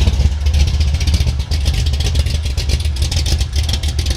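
Freshly built 412 cubic-inch stroker V8, based on a Ford 351 Cleveland, in a 1971 Ford Mustang Mach 1, idling steadily with a deep, rapidly pulsing exhaust note.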